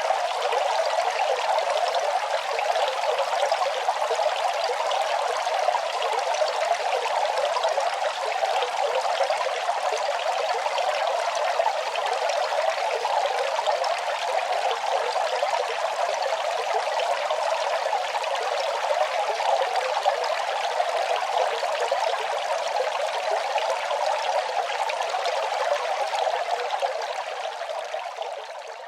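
Running water flowing steadily in an even, unbroken splashing, fading down over the last couple of seconds.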